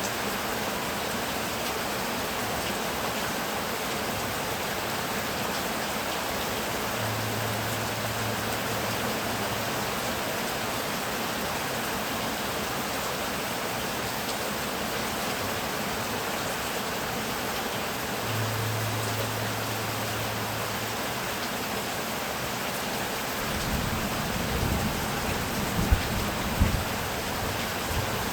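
Heavy rain falling as a steady hiss, with thunder rumbling low and cracking a few times near the end. A faint low steady hum comes and goes twice for a couple of seconds.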